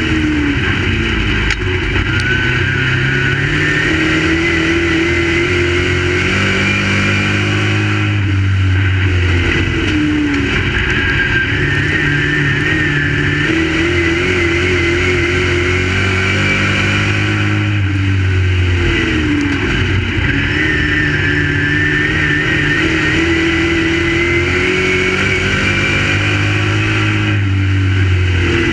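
Crate late model race car's V8 engine at racing speed. Its pitch climbs steadily for several seconds, then drops as the throttle comes off and climbs again, the cycle repeating about every nine seconds as the car laps a short oval.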